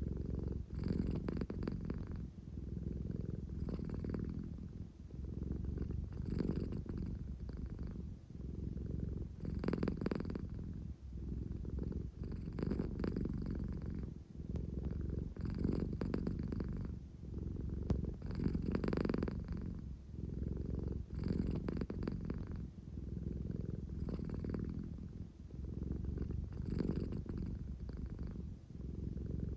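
An American Shorthair cat purring steadily, a low engine-like purr that swells and eases with each breath, about once every two to three seconds.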